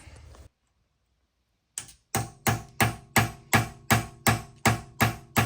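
Hammer blows driving a screwdriver in to bend out the pinched-in metal on a BMW E46 axle-to-hub bolt so it will twist off. After a moment of silence, a steady run of sharp metallic strikes about three a second begins near two seconds in, each ringing briefly.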